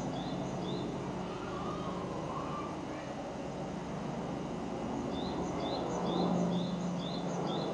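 Wild songbird repeating a short chirped phrase, a lower rising note alternating with a higher one about twice a second, heard briefly at the start and again through the last couple of seconds, over steady low background noise.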